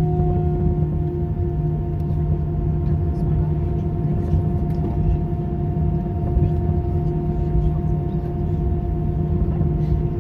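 Airliner cabin noise with the jet engines running on the ground: a steady low rumble under a steady engine whine whose pitch settles slightly lower at the start.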